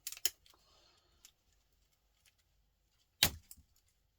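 Sharp snips and clicks of pinchers cutting and prying components off a circuit board: two snaps at the start, faint ticks, then a louder snap about three seconds in.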